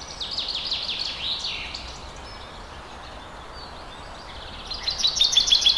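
Small birds chirping over a faint steady hiss: a run of quick, high, falling chirps at the start, then a rapid series of chirps near the end.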